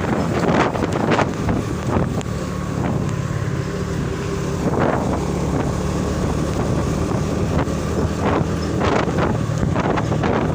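Truck engine running steadily while the truck is driven, with wind gusting on the microphone.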